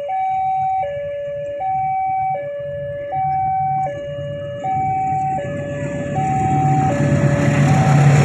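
Railway level crossing alarm sounding a two-tone hi-lo warning, its pitch switching about every three quarters of a second. From about halfway through, the low rumble of the approaching CC 206 diesel locomotive and its container train grows steadily louder and begins to drown the alarm.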